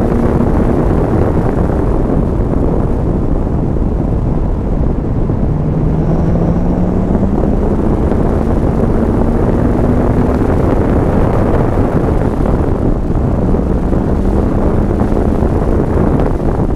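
C5 Corvette Z06's LS6 V8 pulling in third gear, its note climbing for several seconds in the middle and then easing, under a steady rumble of tyre and wind noise heard from inside the cabin.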